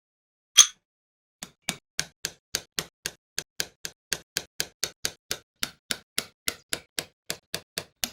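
One sharp click, then a steady, evenly spaced series of short light taps, nearly four a second.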